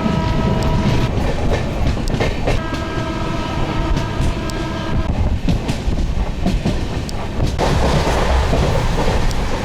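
Passenger train running with a steady rumble and rail clicks. A horn with several steady tones sounds in the first second and again from about two and a half to five seconds in. The rushing noise grows louder about seven and a half seconds in.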